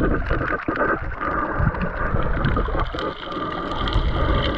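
Sea water rushing around a diver's camera: a steady noisy wash with a low rumble and many small crackling clicks.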